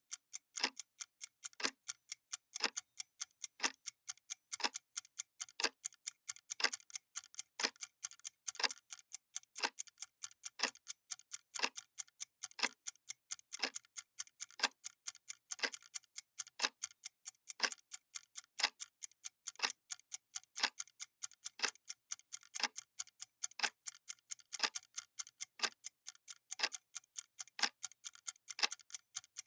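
Clock-style tick sound effect of a countdown timer, one sharp tick every second at a perfectly even pace, with fainter, higher clicks between the main ticks.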